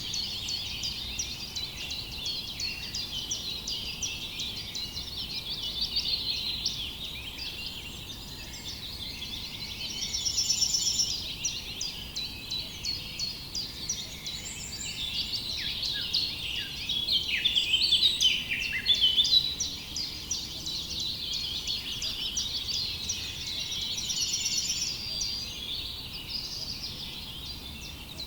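A chorus of many small birds chirping and twittering continuously, with dense overlapping calls that swell louder about a third of the way in and again past the middle.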